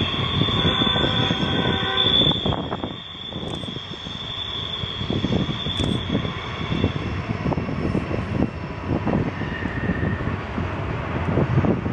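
Double-stack freight train cars rolling through a tight curve, with a steady high wheel squeal that fades out about seven seconds in, over a continuous low rumble of wheels on rail. The squeal is flange squeal of wheels grinding against the rail on the sharp curve.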